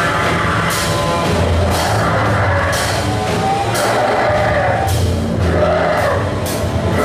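Noise music: a loud, dense, distorted wash over a low sustained drone, with a harsh noisy hit about once a second.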